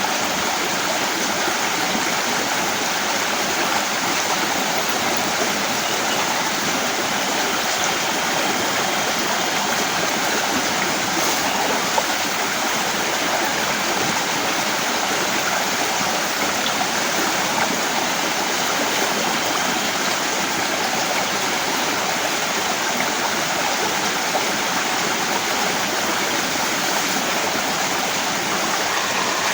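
Heavy rain falling steadily, an even hiss of water with no let-up.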